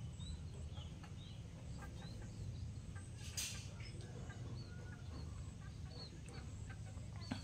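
Birds chirping: a string of short high chirps, each rising and falling, repeated every half second or so over a steady low rumble, with one brief rush of noise a little past three seconds in.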